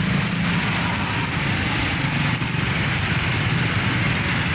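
Dense road traffic: a vehicle engine running steadily nearby, its low hum over a constant wash of traffic noise.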